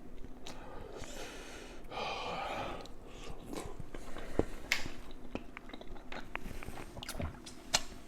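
Close-up chewing and wet mouth sounds of someone eating seafood-boil food, with many short sharp clicks scattered through and a breathy rush of air between about one and three seconds in.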